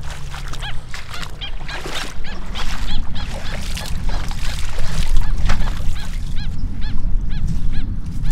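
Birds calling in short calls that rise and fall in pitch, repeating about twice a second, over footsteps in gumboots.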